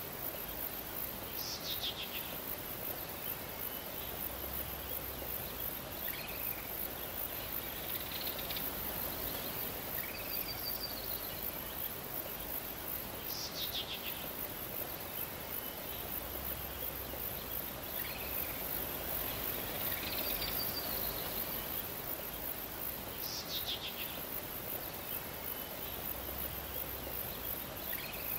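Outdoor nature ambience: a steady hiss with a high insect-like buzz, and birds calling now and then. A quick falling chirp comes every ten seconds or so, among shorter high chirps and brief trills.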